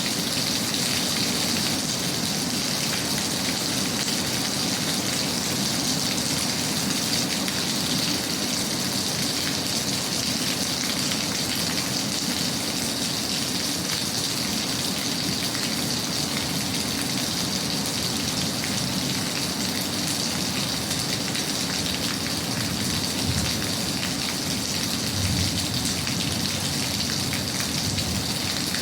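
Steady rain falling without a break, an even hiss of drops at a constant level.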